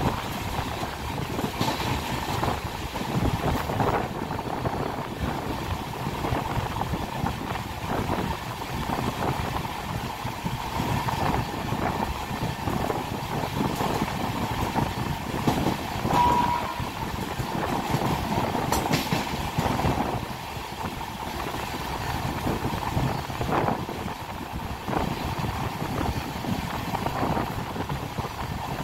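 Passenger express train running at speed, heard from on board: steady rolling noise with the wheels clattering over rail joints. A brief high tone sounds about halfway through.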